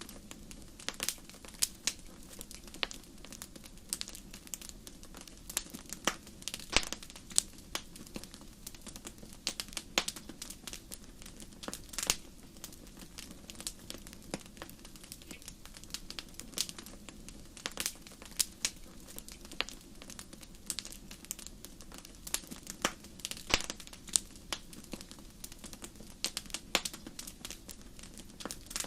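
Wood fire in a fireplace crackling and popping, with sharp irregular pops several times a second over a steady low rush of flames.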